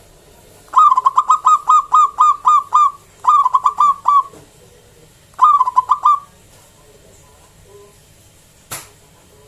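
Zebra dove (perkutut) singing in three bursts of rapid, repeated coo notes, about five a second, with short pauses between. A single sharp click comes near the end.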